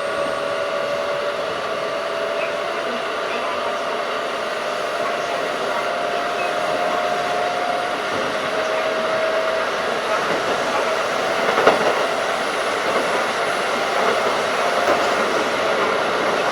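Running noise of a Keikyu 1500 series field-chopper electric train under way: a steady rushing of wheels and rails with a faint steady whine, growing slightly louder. There is one sharp click about two-thirds of the way through.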